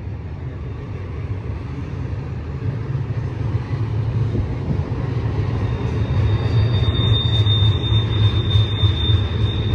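BNSF freight train's diesel locomotives rumbling as they draw closer, growing steadily louder. From about six seconds in, a steady high-pitched squeal from the train joins in, with light ticking over it.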